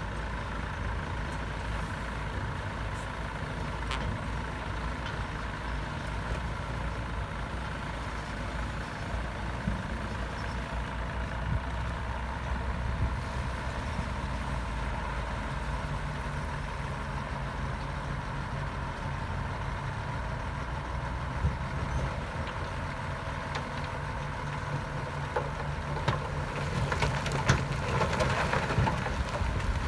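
Heavy earthmoving machinery's diesel engine running steadily under load. A rougher, noisier stretch rises near the end.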